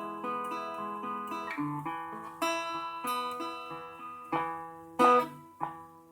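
Acoustic guitar strumming chords between sung lines, each chord ringing and fading before the next, with a sharper, louder strum about five seconds in.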